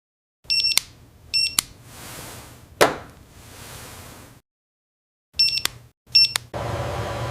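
Four short, high electronic beeps in two pairs, each followed by a sharp click, with a single knock between the pairs. Near the end a steady low mechanical hum starts.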